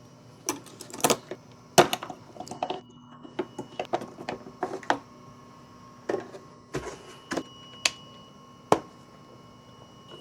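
Irregular sharp clicks and knocks of headlight parts being handled and fitted into a housing, with a few louder snaps, over a faint steady hum.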